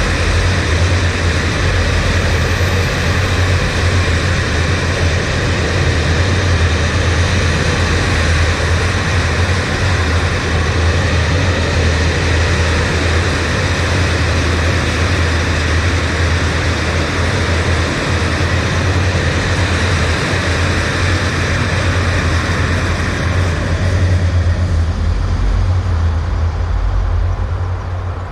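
A train passing close by: a loud, steady rumble with a strong low hum that goes on for the whole stretch, its high end thinning out near the end.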